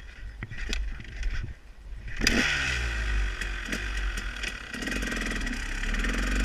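Motorcycle engine cutting in suddenly about two seconds in and running loudly, its pitch rising and falling as it is revved; a few faint clicks before it.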